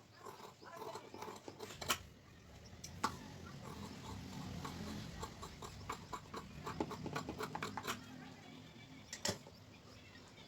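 Cloth being handled and cut with scissors: rustling fabric and sharp snipping clicks, with a quick run of snips in the middle.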